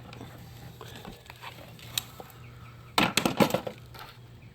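Hand tools and loose metal parts clinking: a single click, then a short clatter of knocks and rattles about three seconds in.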